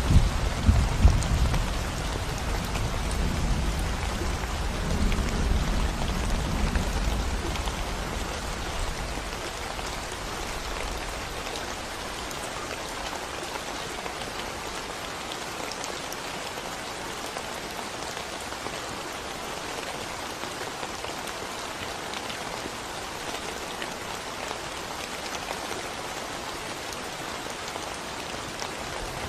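Steady rain falling on a concrete road and the surrounding greenery, a dense even patter of drops. A low rumble of thunder rolls away over the first several seconds, after which only the rain remains.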